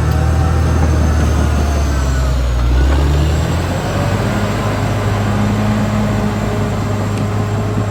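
Caterpillar D6R XL bulldozer's diesel engine running steadily, with a thin high whine riding over it. A little before halfway the engine note dips and then settles at a different pitch, the whine dipping with it.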